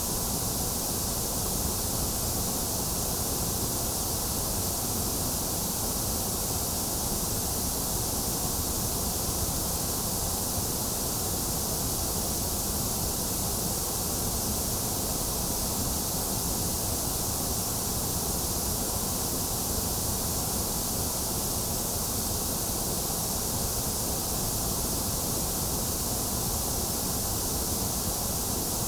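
Steady, unchanging synthetic white noise: a bright hiss over a low rush, thinner in the middle.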